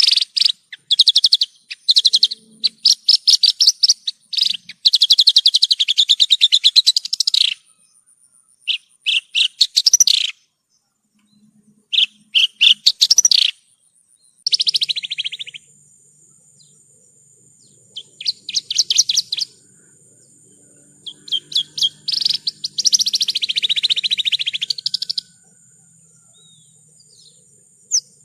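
Horsfield's bush lark (branjangan) singing: bursts of rapid trills and chirps in phrases of one to three seconds, separated by short pauses.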